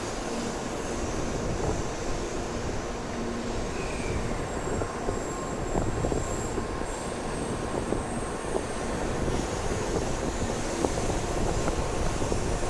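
Shinkansen train pulling out of the station platform: a steady rumble of wheels and running gear, with light clicks coming through from about five seconds in.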